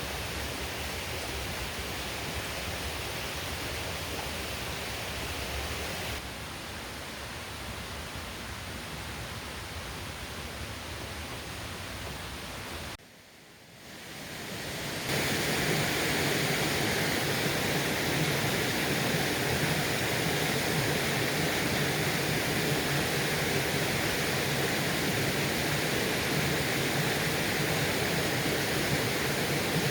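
Mountain stream water rushing steadily over rocks. The rush steps down once, dips out briefly near the middle, then comes back louder.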